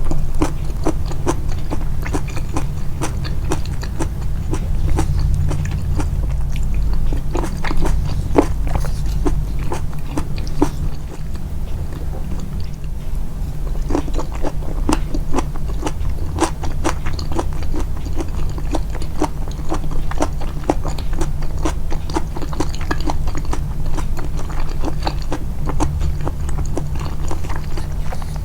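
Close-miked eating sounds: a person chewing and biting food, many small wet clicks in an irregular rhythm, over a steady low hum.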